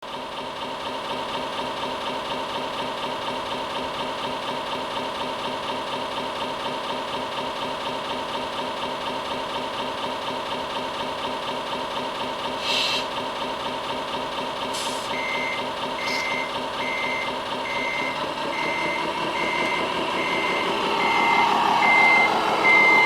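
1:14 Tamiya Scania R500 model truck's electronic sound unit playing a simulated Scania V8 running steadily, with a few short hisses about halfway. Reversing beeps then start, about three every two seconds, and near the end the engine sound rises as the truck backs up.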